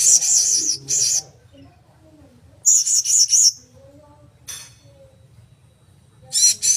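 Blue-crowned hanging parrot (serindit) giving shrill, very high-pitched calls with a rapid warble, in short bursts about a second long: at the start, about three seconds in, and again near the end.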